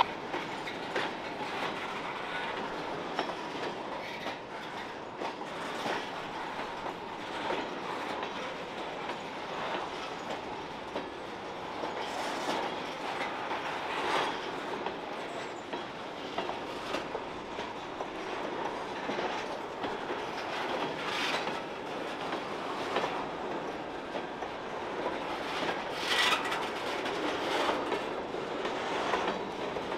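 Freight train of covered hopper cars rolling slowly past, its steel wheels clicking over the rail joints while the track creaks under the load. A few louder knocks stand out, one about halfway and another near the end.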